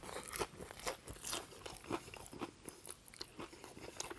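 Close-miked chewing of a crispy KFC hot wing: irregular crunches of the fried breading, with small wet mouth sounds between them.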